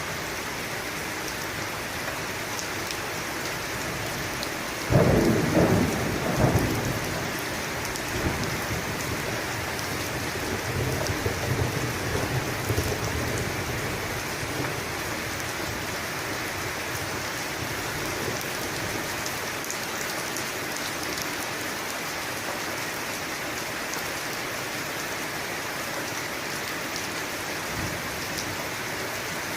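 Steady heavy rain with a thunderclap about five seconds in: a sharp crack, then low rumbling that fades out over the next several seconds.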